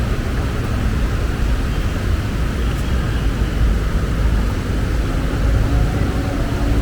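Steady rumble of city street traffic, with a low engine drone coming in about five seconds in.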